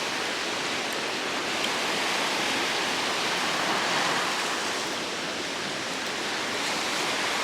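Sea surf washing on a beach: a steady hiss of breaking waves that swells a little midway.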